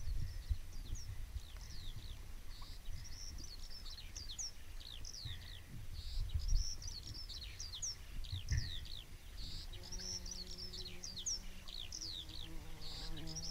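Songbirds chirping steadily in quick, high, downward-sliding notes over a low outdoor rumble with a few dull low thumps. A low steady hum comes in near the end.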